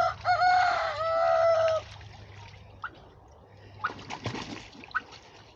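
A rooster crows once, a single held call of nearly two seconds. Later a few faint splashes of water.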